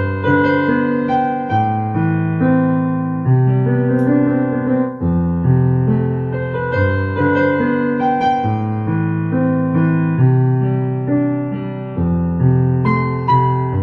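Slow, calm piano music: held chords with notes struck every second or so, each one fading before the next.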